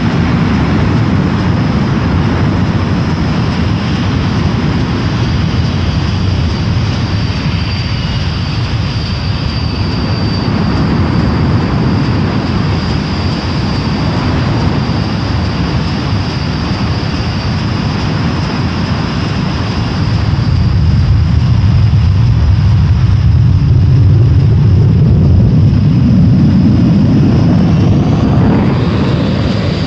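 Panavia Tornado GR1 jet engines running on the ground: a steady high whine over a heavy rumble. The sound swells louder about two-thirds through, then falls away at the end.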